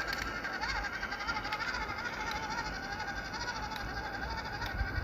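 Small RC trail truck's electric 370 motor and gearbox whining steadily, the pitch wavering up and down as the throttle and load change while the truck claws for grip on a steep, loose slope.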